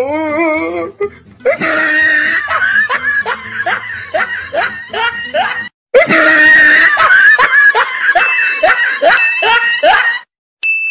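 Loud laughing: a rhythmic ha-ha-ha of about four pulses a second, in two long runs that each cut off abruptly.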